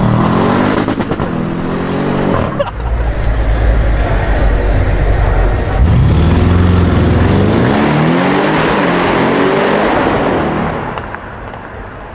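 Audi RS6 engine accelerating hard, its pitch climbing and dropping back at a gearshift about two and a half seconds in and again about six seconds in, then fading away near the end.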